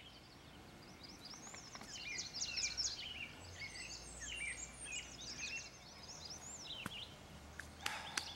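Several songbirds chirping and trilling, with quick short calls overlapping one another, and a few sharp clicks near the end.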